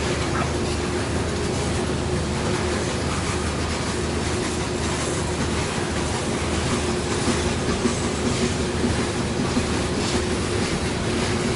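Loaded coal train rolling past: steel wheels clicking over rail joints over a steady rumble and hum, with the clicks coming more often in the second half.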